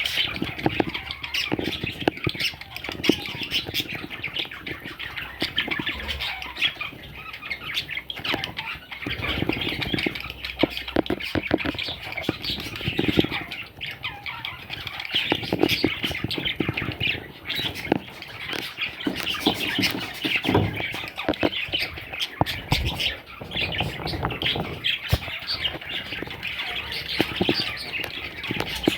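Baby budgerigars chirping and squawking in a dense, continuous chatter, mixed with short scuffling knocks.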